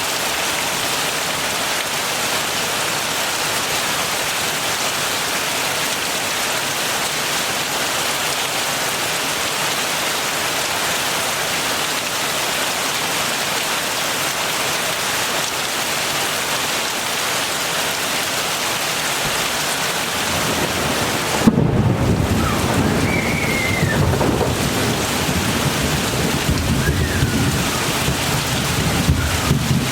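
Steady heavy rain hissing. About two-thirds of the way in, a sudden crack of thunder breaks in and rolls on as a deep rumble under the rain.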